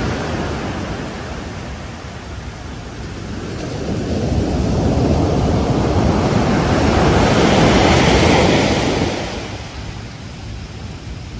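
Ocean waves breaking on a beach: the surf eases at first, then a wave builds and crashes over several seconds before dying away near the end.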